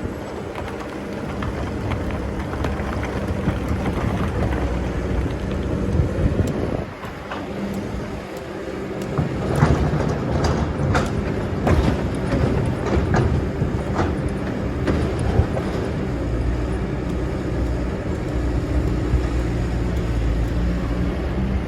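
Excavator's diesel engine running steadily. It eases off about seven seconds in, then works harder again. Over the next several seconds come a run of knocks and scraping as the bucket digs sand.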